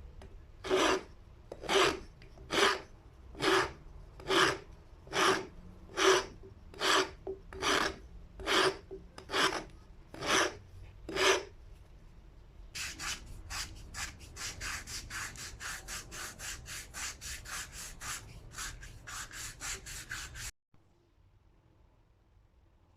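Rasping strokes: about a dozen slow, even strokes a little under a second apart, then quicker, lighter strokes several a second that cut off suddenly.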